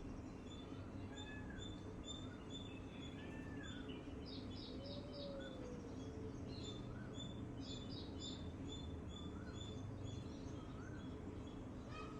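Several birds chirping and calling over a steady low background noise: many short high chirps, a couple of quick runs of three or four notes, short rising-and-falling notes repeated every second or so, and one lower slurred note about five seconds in.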